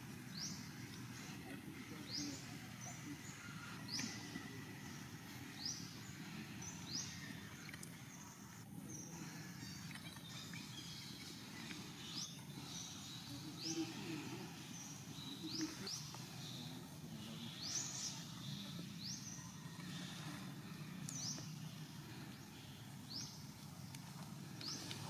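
Outdoor ambience: a steady low background hum, with short, high, rising chirps repeating irregularly every second or two.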